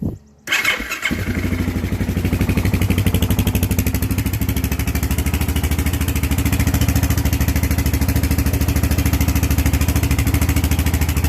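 Honda TRX700XX ATV's single-cylinder four-stroke engine starting about half a second in, then idling steadily with an even pulse through its original stock muffler.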